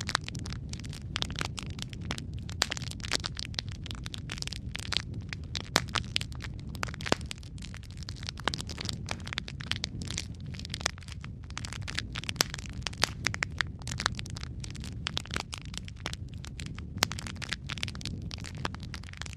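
Wood fire in a fireplace crackling: a steady low rumble of burning with many sharp, irregular pops and snaps, several a second.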